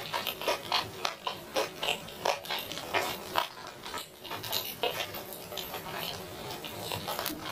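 Eating sounds: chewing and mouth smacks in a quick, irregular run of short clicks.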